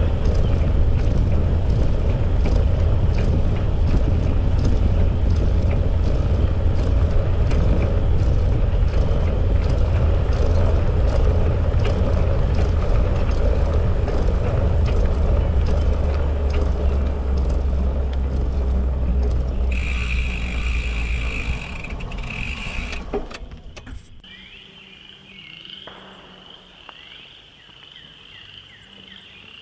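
Wind buffeting the microphone and the rolling rumble of a bicycle ride along a trail, with a brief high squeal around twenty seconds in. The riding noise dies away a little past the three-quarter mark as the bike stops, leaving a steady high-pitched chorus of frogs calling.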